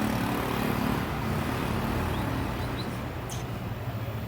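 Steady low rumble of road traffic and engines. A few faint, short, high bird chirps come through about two seconds in.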